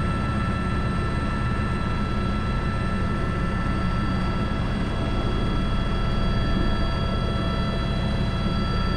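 Airbus H125 helicopter in flight carrying a sling load: steady turbine whine of several high tones over the constant low rotor and engine noise.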